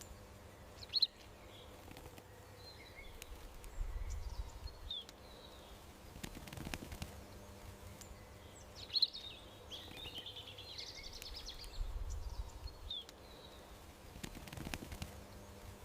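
Small songbirds chirping, with short high chirps every few seconds and a busier cluster of chirps midway. A faint low rumble comes twice.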